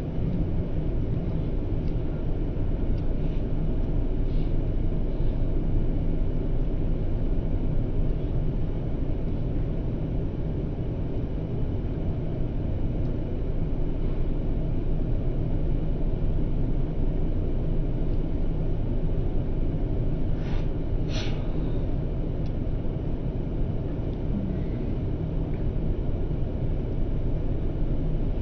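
Steady low rumble of an airliner cabin in flight, from engine and airflow noise, with a couple of brief clicks about twenty seconds in.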